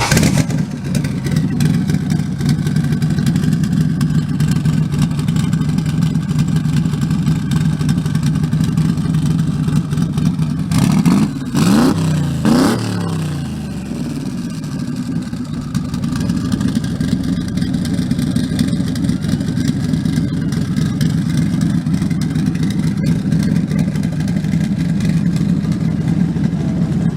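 Car engine idling steadily, revved briefly twice in quick succession about halfway through, then settling back to idle.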